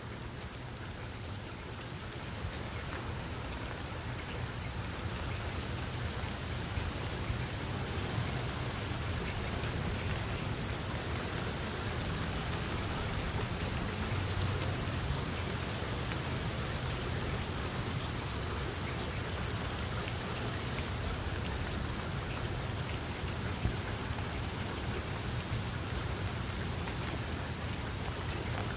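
Steady rain falling, with scattered louder drops and a low rumble underneath. It grows a little louder over the first few seconds.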